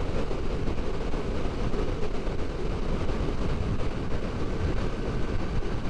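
Motorcycle cruising at steady highway speed: a constant engine drone mixed with wind and road noise, heaviest in the low end.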